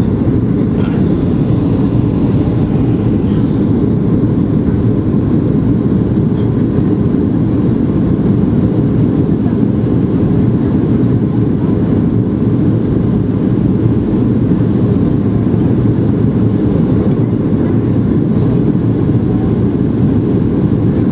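Steady low cabin noise inside a Boeing 737-800 in flight during descent: the CFM56 engines and airflow over the fuselage, an even rumble with no changes.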